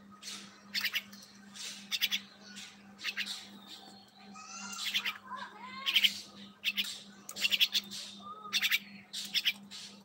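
Small caged birds giving short, sharp chirping calls about once a second, with a few squeakier bending notes near the middle.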